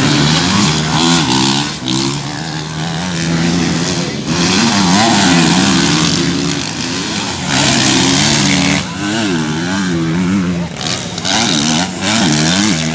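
Motocross bike engines revving hard around the track, their pitch rising and falling again and again as riders work the throttle through the turns and jumps, with several bikes heard at once.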